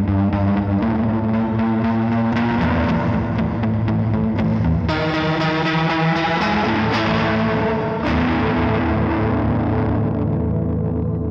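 Electric guitar playing sustained chords through a Big Ear Pedals Albie multi-effect pedal, washed in the pedal's effects, with the chord changing every couple of seconds.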